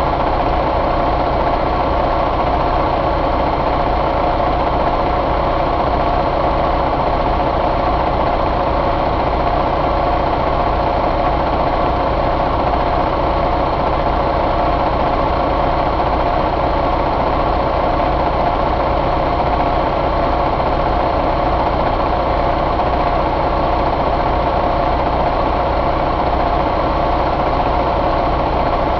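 Detroit DD15 inline-six diesel engine running at a steady speed, with no revving.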